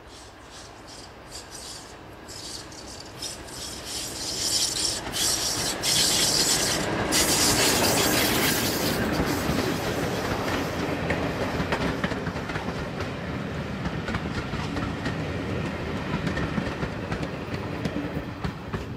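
A diesel locomotive and its train passing close by. The sound builds to a peak about six to eight seconds in and then slowly dies away, with clicks of the wheels over the rail joints as it comes near.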